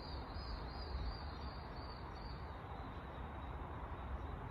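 Quiet outdoor park ambience: a steady low hum of distant traffic with faint bird calls.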